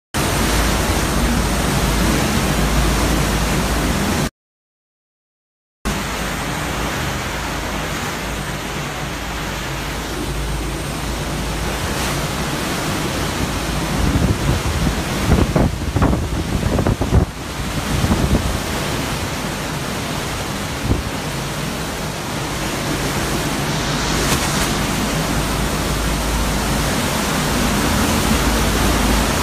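Hurricane-force wind blowing, a loud steady rushing noise with stronger gusts buffeting the microphone about halfway through; the wind is estimated at about 160 to 170 miles an hour. The sound drops out completely for about a second and a half near the start.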